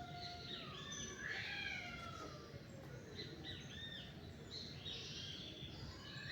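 Several birds singing and chirping together: many short whistled notes and trills, some arching up and down, over a steady background hiss.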